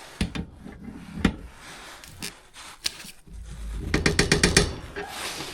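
Hand tools clicking and knocking on a furnace gas line fitting as it is tightened back up: a few separate sharp knocks, then a quick run of about eight clicks a little after the middle.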